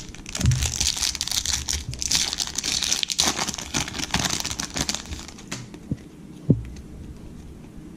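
Plastic wrapper of a baseball card pack crinkling and tearing as it is opened, for about five seconds, then quieter with one short thump.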